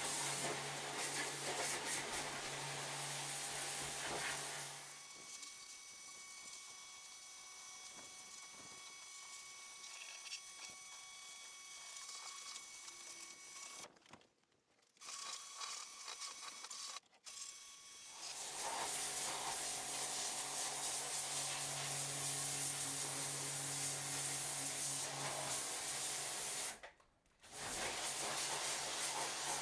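Pressure washer running, its motor humming under the steady hiss of the water jet on the boat's interior. The spray sound drops to a lower level for a stretch in the middle, and the sound cuts out briefly three times.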